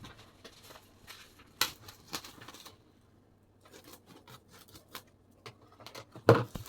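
Scattered crinkles, rustles and small clicks of a cabbage being wrapped by hand for storage, with a single louder knock about six seconds in.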